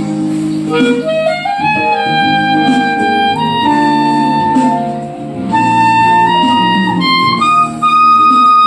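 Clarinet playing a slow romantic melody over a guitar and piano backing, the clarinet line coming in about a second in with long held notes that step upward.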